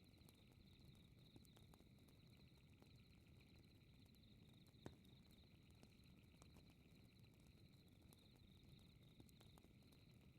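Faint crackling fireplace, with scattered small pops over a low rumble and one sharper crack about five seconds in, under a steady chorus of crickets chirping.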